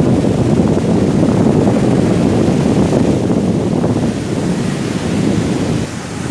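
Sea surf and strong wind buffeting the microphone: a steady, heavy low rush, easing slightly near the end.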